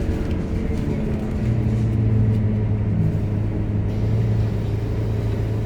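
Scania K230UB bus's diesel engine heard from on board, settling into a steady low drone about a second and a half in.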